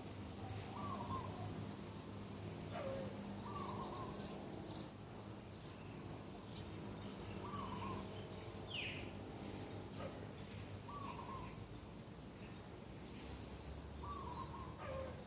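Doves cooing in short phrases repeated every few seconds, with other small birds chirping high and quick through it and one falling call about two-thirds of the way in.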